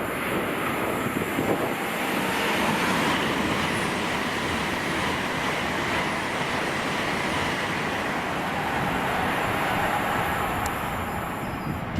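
Train running along the line through the station: a steady rushing noise of wheels on rail that eases off near the end.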